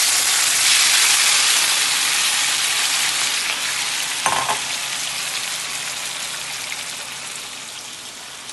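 Chopped onion, garlic, Scotch bonnet pepper and tomato dropped into hot oil in a frying pan: a loud sizzle that starts suddenly and slowly dies down, with a short knock about four seconds in.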